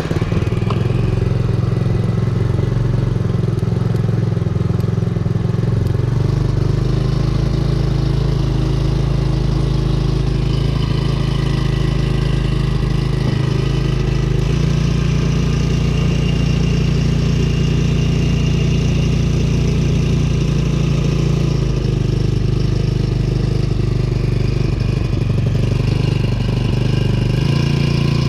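Brand-new Hangkai 4 hp four-stroke outboard motor catching on the first pull and then running steadily on its first run, not yet broken in. Its engine speed steps up and down slightly a few times.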